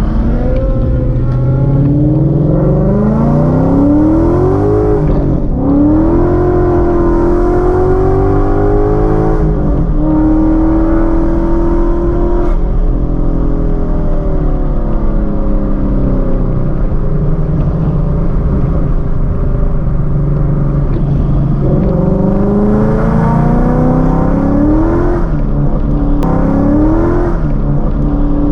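A car engine accelerating hard: its pitch climbs and drops sharply several times as it shifts up through the gears, then it pulls up through the revs again near the end.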